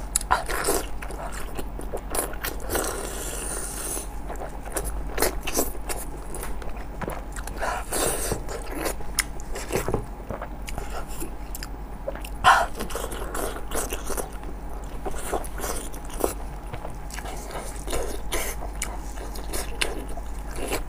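Close-miked eating: a person biting and chewing oily, spicy pork large intestine stuffed with small intestine, with many irregular short mouth clicks. One louder short sound comes about twelve seconds in.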